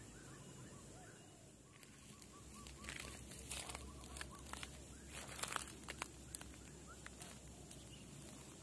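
Faint outdoor quiet with a bird chirping in quick runs of short notes, and brief crackling rustles through the middle.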